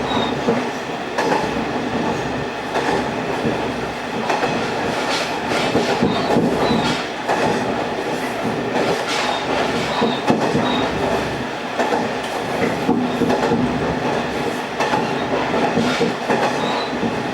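Kumagawa Railway diesel railcar running along the line: a steady engine and running noise, with the wheels clacking over rail joints now and then.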